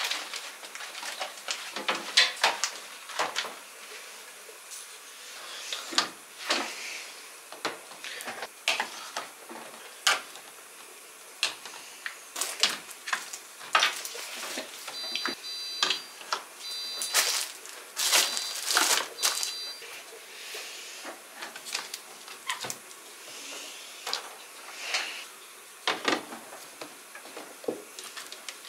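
Household handling sounds from kitchen chores: irregular knocks, clicks and rustles of objects being moved, set down and wiped. A few short, faint high beeps come about halfway through.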